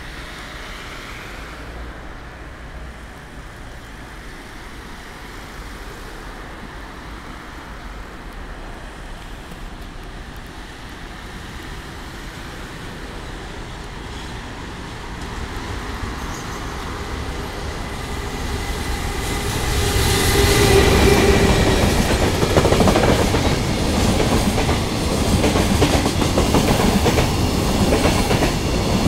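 JR Freight EF210 electric locomotive hauling a long container freight train, approaching and growing steadily louder until it passes about twenty seconds in, with a brief whine. After that come the continuous rumble and clickety-clack of the container wagons' wheels over the rail joints.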